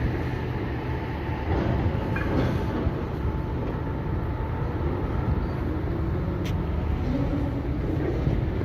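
Steady low rumble of passing vehicle or rail noise, with a short high click about six and a half seconds in.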